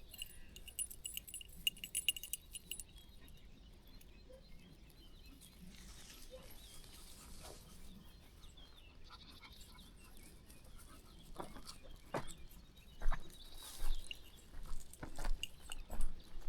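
A bird's rapid high trill for the first few seconds, then a quiet spell, and from about eleven seconds a run of irregular crunching footsteps on a country path.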